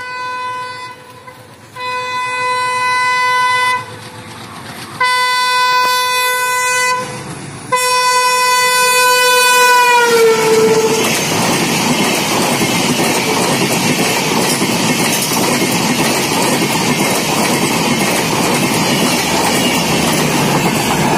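WDM-3D diesel locomotive sounding its horn in three long blasts as it approaches; the last blast drops in pitch as the locomotive reaches the crossing. The locomotive and its passenger coaches then pass at speed with a loud, continuous rush of wheel and rail noise.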